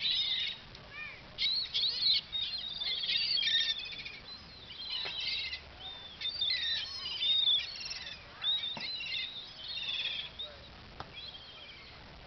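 A flock of birds calling, many short high chirps and calls overlapping one another, thinning out near the end.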